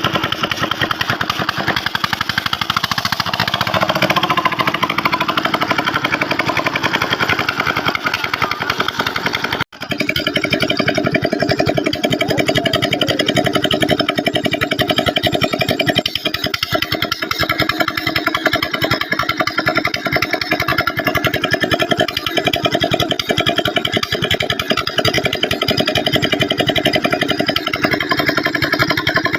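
Old Petter-type diesel engine of a tube well running steadily with a fast, even exhaust beat. The sound cuts out abruptly for an instant about ten seconds in, then carries on unchanged.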